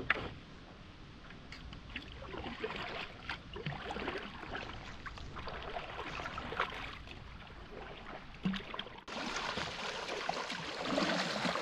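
Paddle strokes in water while paddling a board seated: the blade dipping and splashing, with trickling drips between strokes.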